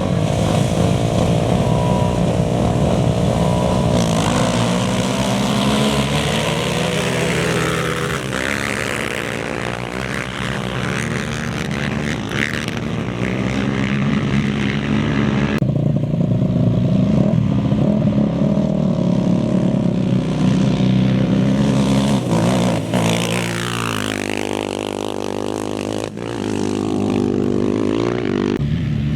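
Engines of off-road race vehicles running hard, with the pitch sweeping as machines pass, once about eight seconds in and again later; the sound changes abruptly near the middle.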